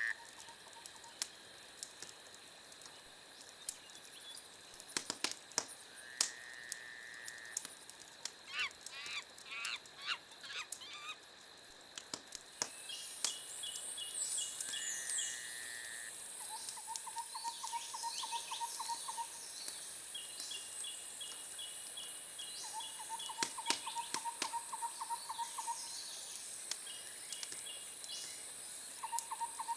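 Wood fire crackling, with sharp pops and clicks scattered throughout. Under it run chirping calls and short pulsed trills that repeat every few seconds, and a thin steady high tone comes in about halfway through.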